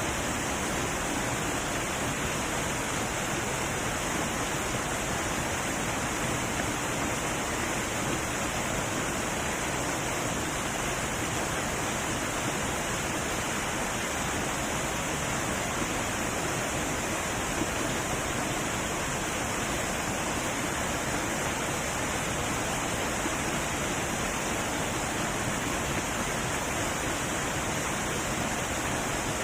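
Heavy waterfall rushing in a steady, unbroken roar of falling water.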